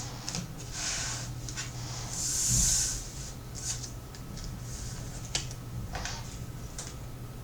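Tarot cards being handled on a table: light clicks and rustles of cards being gathered, with one longer sliding swish about two seconds in.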